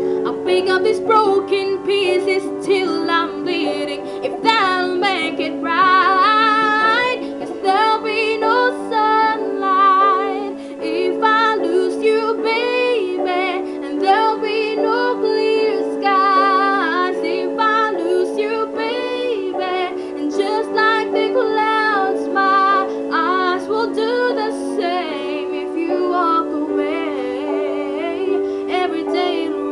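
A female voice singing wordless vocal runs with vibrato over steady sustained backing chords.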